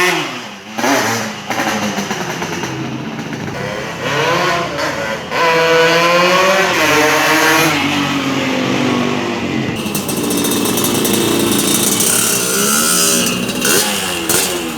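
Two-stroke motorcycle engine through a racing exhaust, revved in repeated blips with one longer, higher rev near the middle.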